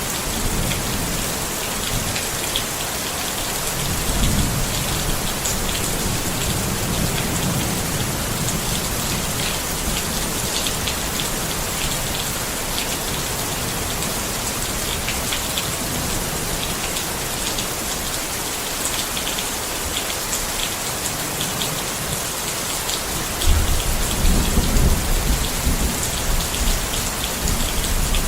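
Steady rain falling on a tent, with separate drops ticking on the fabric. Low rumbles of thunder come and go, the loudest starting about 23 seconds in.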